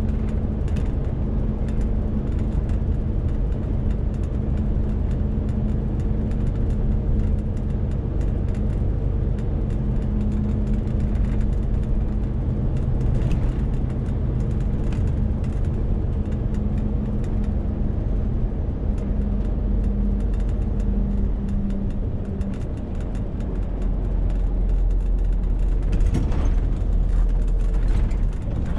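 Renault T520 truck's diesel engine running steadily under a 40-tonne load, a constant drone with a low rumble. The rumble grows louder in the last few seconds as a steady mid-pitched tone in the hum fades out.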